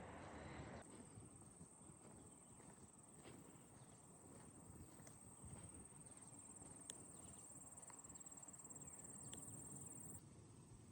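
Quiet outdoor ambience: a faint, steady high-pitched insect trill that stops near the end, with soft footsteps on a path.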